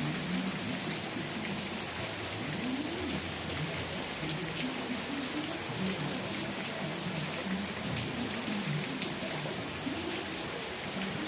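Steady rain falling, an even hiss with the fine ticking of individual drops striking a surface.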